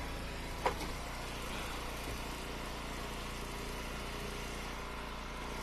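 Engine of an Eastonmade wood splitter running steadily at idle, with one sharp knock a little under a second in.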